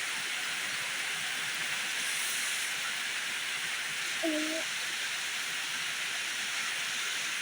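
Heavy rain pouring steadily, an even hiss with no breaks. A brief, faint pitched sound about four seconds in.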